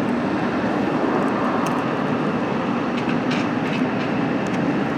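Steady vehicle noise: a constant rumbling wash with a few faint clicks.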